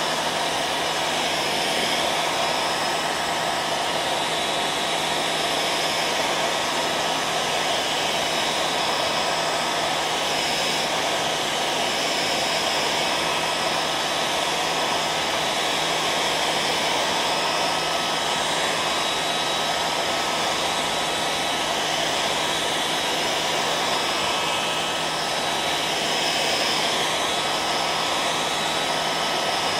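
Hair dryer running steadily: an even rush of blown air with a constant motor whine held at one pitch.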